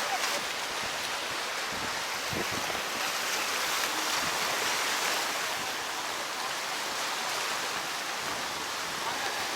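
Sea waves: a steady rushing wash that swells a little around the middle.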